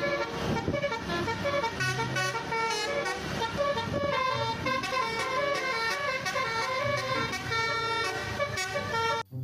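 A multi-tone horn plays a tune, note after note about twice a second, in the manner of an Indonesian 'telolet' bus and truck horn. It cuts off suddenly near the end.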